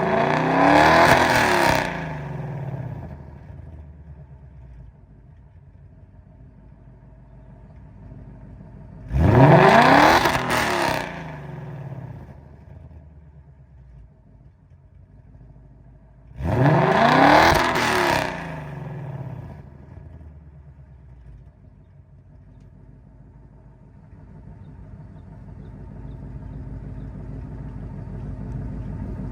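A 2022 Ford Mustang GT's 5.0-litre V8, fitted with free-flowing long-tube headers and active exhaust, is revved three times. The first rev comes at the start, the second about nine seconds in and the third about sixteen seconds in. Each rev climbs sharply in pitch, then drops back to a steady idle.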